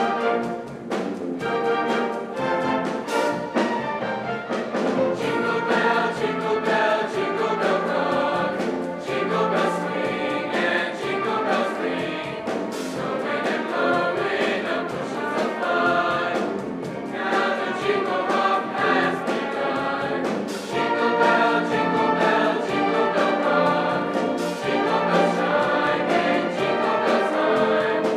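Music: several voices singing together with an instrumental ensemble that includes brass, playing continuously.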